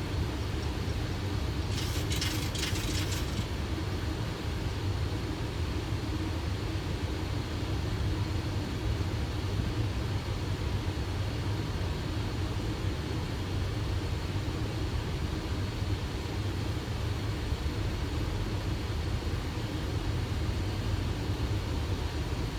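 Steady low rumble of a Boeing 737 flight deck on final approach with the landing gear down and flaps at 30: airflow and engine noise. A brief high hiss about two seconds in.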